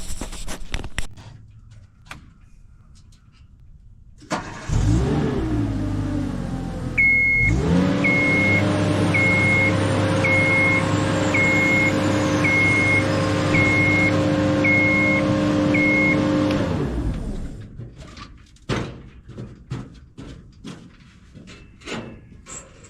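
Scissor lift's motor starting up and running steadily for about ten seconds, with its motion alarm beeping about once a second, nine times, before the motor stops. Scattered clicks and handling knocks come before and after.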